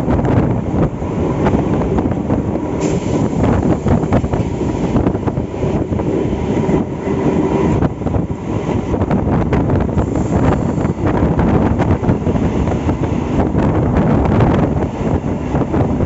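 MEMU electric train running at speed, heard from an open coach door: a steady rumble of wheels on the rails with many short rattles and clicks from the running gear. A brighter hiss rises from about three seconds in to near eight seconds.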